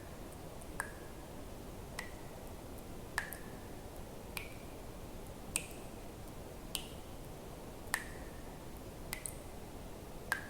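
Water drops falling one at a time at an even pace, about one every second and a quarter. Each drop is a sharp click with a short plinking tone, pitched slightly differently from drop to drop, over a faint steady hiss.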